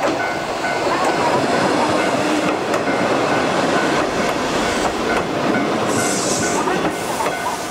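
Electric commuter train passing close by, its wheels clattering over the rail joints in a steady loud rush, with a brief high hiss about six seconds in. A level-crossing bell rings under it and comes through again near the end.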